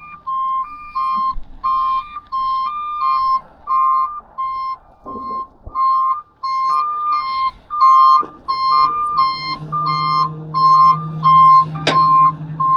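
Garbage truck's backup alarm beeping steadily, about three beeps a second, alternating between two slightly different pitches. About eight seconds in a low steady drone joins, and a sharp clank comes near the end.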